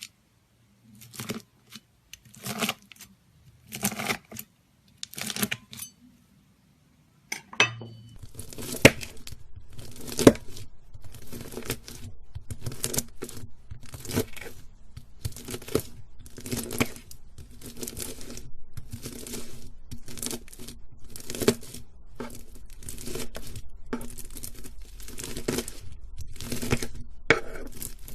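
Knife slicing through crunchy slime, each cut a crackling crunch. Slow slices about every second and a half at first, then after a short gap faster slices, about one every three quarters of a second, over a faint low background hum.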